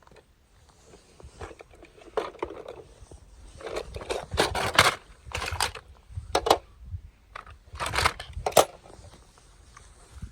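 Toys being handled: rustling, crinkling and sharp plastic clicks in several short bursts, loudest about halfway through and again near the end.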